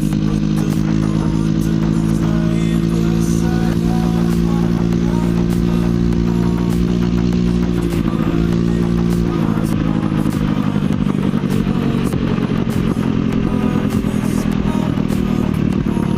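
150 cc scooter engine running under throttle at steady revs, the engine note held flat. About nine seconds in, the steady drone breaks up into a rougher, uneven engine sound.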